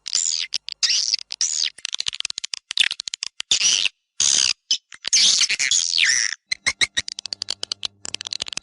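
Recorded swiftlet calls played as a swiftlet-house lure sound: high, buzzy twittering chirps alternating with rapid trains of dry clicks. The sound is chopped into short bursts with sudden gaps of silence between them.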